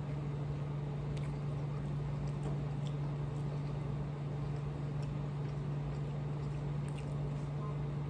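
A steady low hum, with a few faint soft mouth clicks from chewing ramen noodles.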